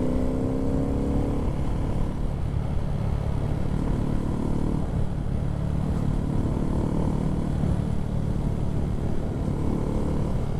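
Honda MSX125 minibike's single-cylinder four-stroke engine running under way, its note rising and falling with the throttle, over a steady low wind rumble on the microphone.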